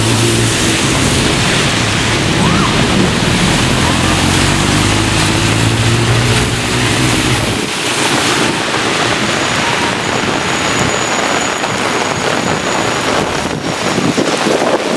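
Heavy thunderstorm rain pouring down steadily, with wind buffeting the microphone. A low steady rumble runs under it for the first half and stops abruptly about halfway through.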